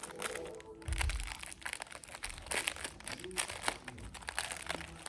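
Plastic packaging crinkling and rustling as a mail-order bag is unwrapped by hand, with a low thump about a second in.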